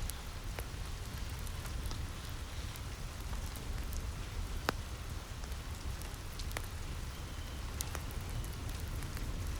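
Steady rain falling on a roof, an even hiss over a low rumble, with a few scattered sharp pops from a crackling wood fire.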